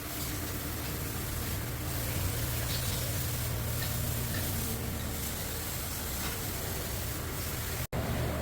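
2020 Kia Sportage diesel engine running with a steady low drone, an engine that runs rough and shakes (misfire) at start-up. The sound breaks off for an instant near the end.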